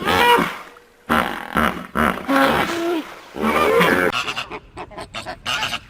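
An animal calling several times, pitched calls that bend up and down, followed by shorter choppy sounds near the end.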